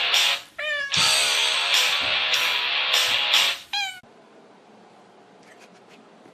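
A domestic cat meowing twice, each meow short, cutting into loud music with a steady beat; after about four seconds the music stops and only faint room sound remains.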